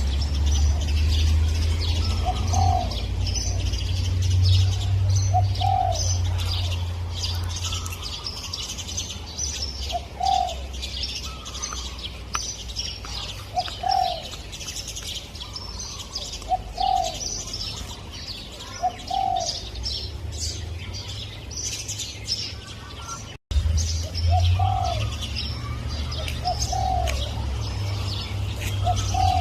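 Spotted dove cooing: short, low notes repeated every two or three seconds over constant high chirping of small birds and a low rumble. The sound cuts out for an instant near the end.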